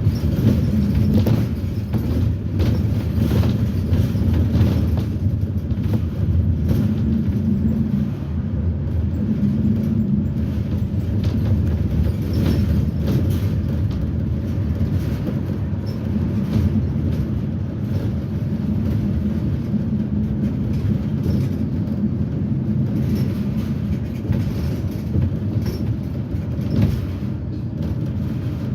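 GM Vortec V8 of a propane-fuelled 2010 Blue Bird Vision school bus running under way, heard from inside the bus: a steady low engine drone with frequent rattles and knocks from the body.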